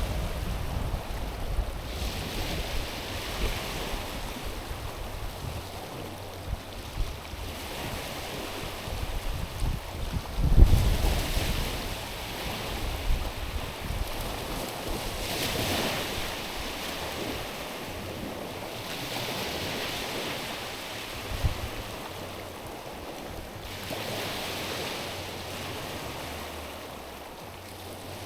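Small sea waves washing onto a stony shore, a swelling hiss of water over stones about every four to five seconds. Low rumbles of wind on the microphone underneath, the strongest about eleven seconds in.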